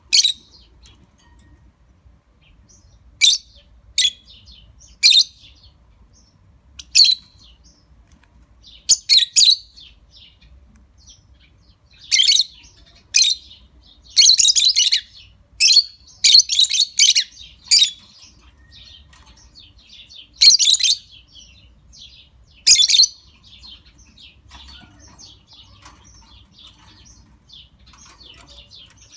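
A pair of lovebirds chirping: short bursts of high-pitched chirps every second to few seconds, densest and most sustained around the middle, giving way to faint soft chatter near the end.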